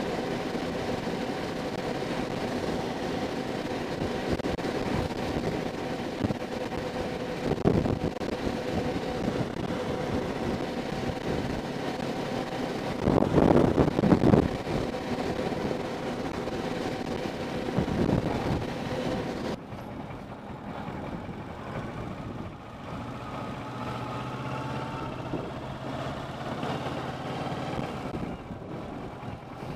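Motorcycle riding at a steady speed: the engine's steady note under wind rush, which swells loudly for a second or so about halfway through. Near two-thirds of the way in, the sound changes abruptly to a quieter, lower hum.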